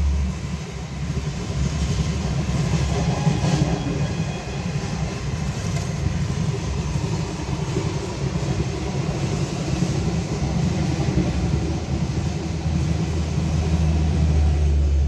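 Indian Railways express train passing at speed: the coaches give a steady rumble of wheels on the rails.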